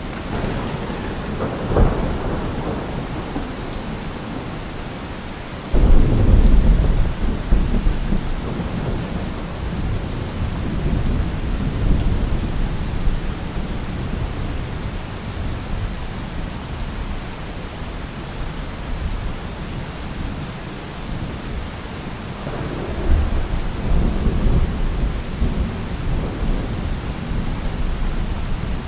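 Thunderstorm with steady heavy rain. A sharp thunder crack comes about two seconds in, then a loud close thunderclap breaks suddenly near six seconds and rolls on as a deep rumble, with another long roll of thunder near the end.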